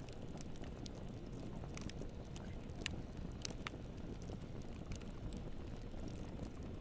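Wood fire burning in a fireplace: a steady low rush of flames with frequent sharp crackles and pops, the loudest about three seconds in.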